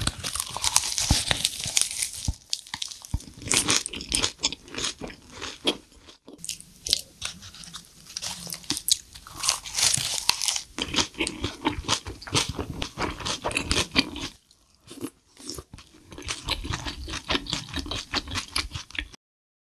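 Crunching and chewing as a crisp lettuce wrap is bitten and eaten: many sharp crunches in quick succession, with a short pause about three quarters of the way through. The sound cuts off just before the end.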